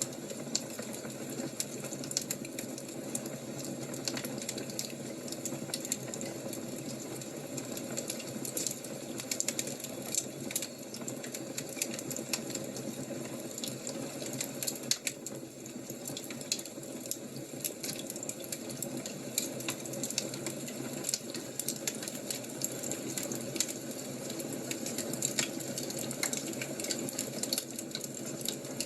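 Wood fire crackling: a steady low rush with many small pops and snaps at irregular moments.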